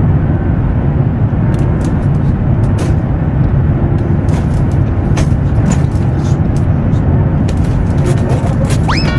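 Loud, steady low rumble of an aircraft in flight, with scattered clicks and rattles through it and a short rising whistle near the end.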